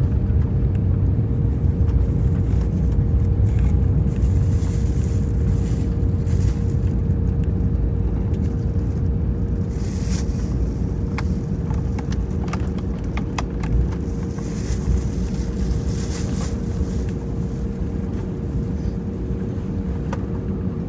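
Airbus A320 cabin noise while taxiing after landing: a steady low rumble from the engines and rolling wheels with a constant hum tone, and scattered brief hisses and clicks in the middle.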